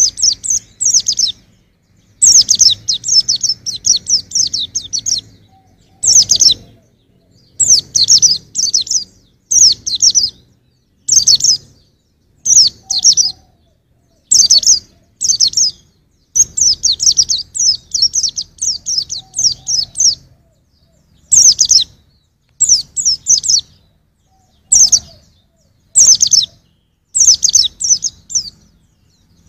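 White-eye (pleci) singing: bursts of fast, high twittering phrases, some brief and some a few seconds long, separated by short pauses.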